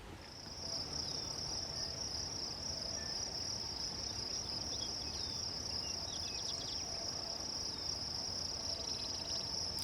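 Insects, crickets or similar, trilling in one steady, unbroken high-pitched drone that starts just after the beginning, with a few faint bird chirps beneath it.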